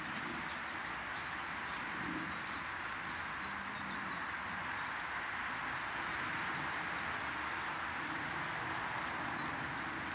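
Small garden birds chirping over and over in short high calls, over a steady background hiss.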